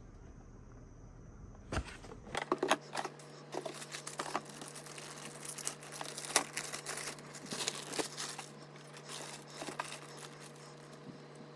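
Packaging being handled: plastic crinkling and rustling with scattered clicks and taps, starting about two seconds in and dying down near the end.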